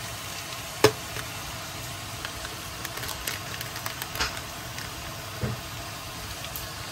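Onion-tomato masala sizzling gently in a non-stick pan with a steady hiss. There is a single sharp knock about a second in, then light crinkling of a foil spice packet as masala powder is shaken out of it around the middle.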